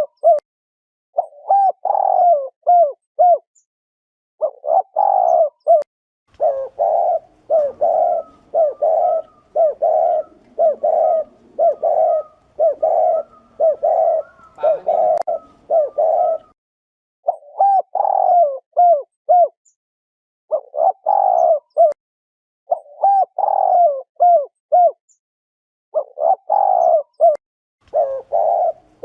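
Spotted dove cooing in loud, clean phrases of a few notes, repeated with short silent gaps, with a longer unbroken run of rolling coos in the middle. This is the 'thổ rền' style of coo that is used as a lure call to draw in wild doves.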